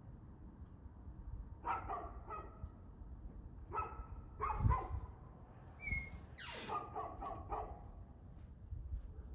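A dog barking in three short bursts of several barks each, about two, four and seven seconds in, over a low steady background rumble.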